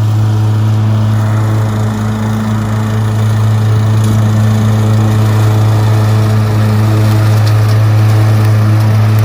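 Petrol lawn mower engine running steadily at a constant pitch.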